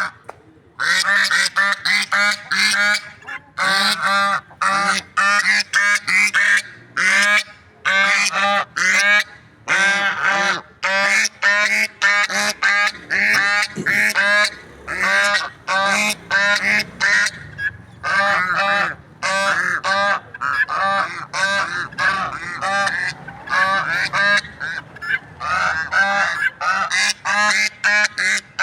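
Guinea fowl calling: loud, harsh, rapidly repeated calls, several a second, in runs with short breaks.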